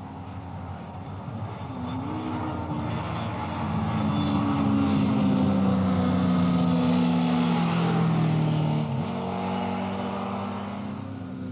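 Racing superbike motorcycles passing at speed, their engines getting louder to a peak midway and then fading away with the pitch dropping.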